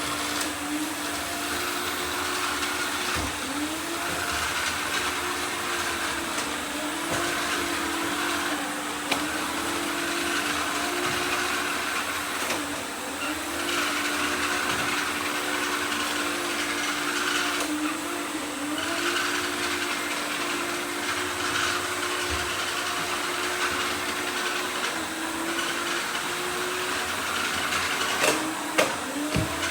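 Robot vacuum cleaners running together: a steady motor whine that briefly dips in pitch and recovers every few seconds, over a hiss of suction and brushes. A few sharp knocks come near the end.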